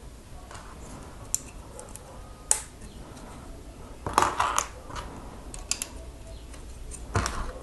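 Small plastic Lego pieces clicking and rattling as they are handled and fitted together: a few sharp single clicks, then short bursts of clattering about four seconds in and again near the end.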